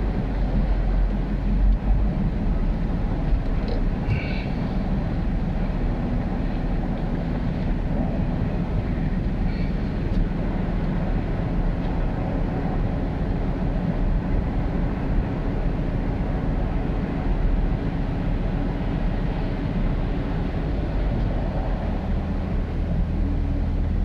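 Ford F-350 Super Duty pickup running, a steady low engine rumble.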